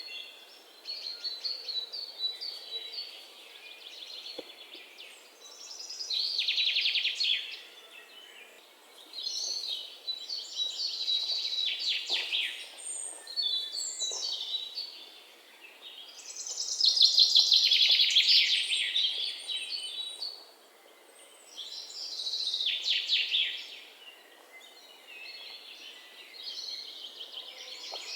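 Songbirds singing: high, rapid chirping trills in phrases of a second or two, repeating every few seconds with short lulls between. The loudest phrase comes about two-thirds of the way in.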